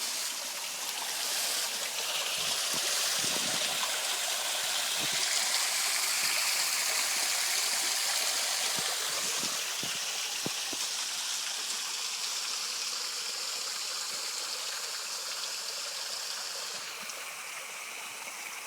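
Small creek waterfall, water rushing and splashing steadily. It grows louder after a couple of seconds and eases off near the end.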